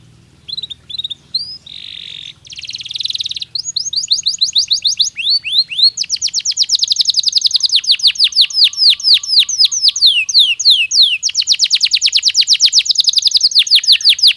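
Domestic canary singing. A few short chirps and two harsh buzzy notes open the song, then long trills of rapidly repeated falling whistles, about ten a second, speed up into a very fast roll near the end.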